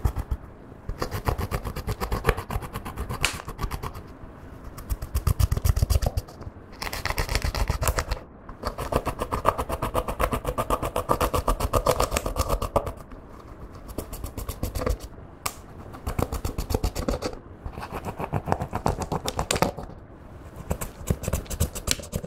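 Clear slime being mixed and squished, giving dense runs of rapid clicks and pops in bursts of a few seconds.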